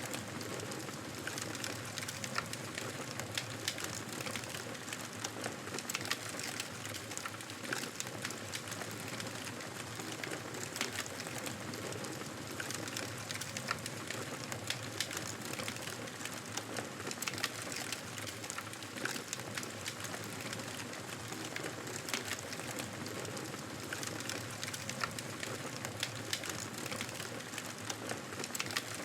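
Wood fire burning in a fireplace: a steady hiss and rustle of flames with frequent, irregular sharp crackles and pops.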